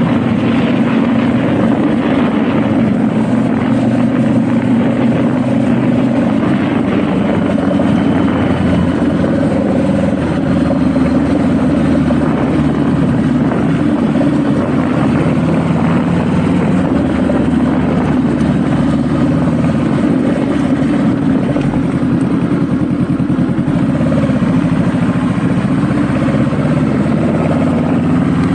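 Honda Rebel motorcycle engine running at a steady pace while riding, with road and wind noise over it.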